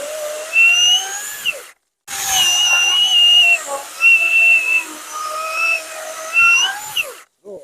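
Worx WG385E 16-inch cordless chainsaw running and cutting a log: a high whine over chain hiss whose pitch dips and recovers as the chain bites. It cuts off abruptly just before two seconds in, starts again a moment later, and stops near the end.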